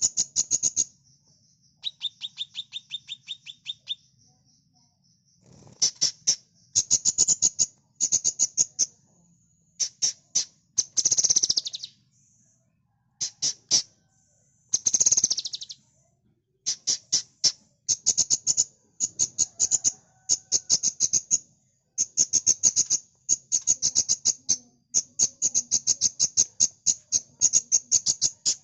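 Kinoi songbird singing energetically: repeated phrases of rapid, sharp, high chips, each about a second long and separated by short pauses, with a softer, lower run of evenly spaced notes early on.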